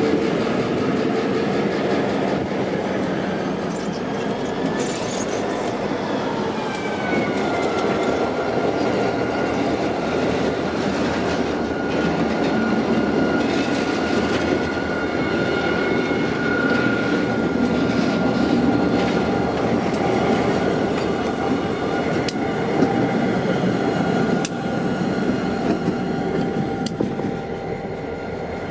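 EMD diesel locomotives (SD40-2s with 645 engines) running as the consist moves through the yard. A high whine slides down in pitch about six to eight seconds in and then holds steady, and a few sharp clicks come in the second half.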